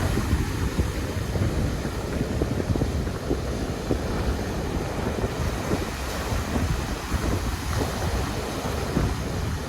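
Ocean waves washing on a beach, with wind buffeting the microphone in a steady low rumble.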